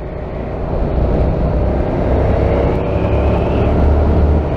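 Motorcycle engine and wind noise as heard from a helmet-mounted camera while riding, getting louder over the first second, the engine note rising a little in pitch.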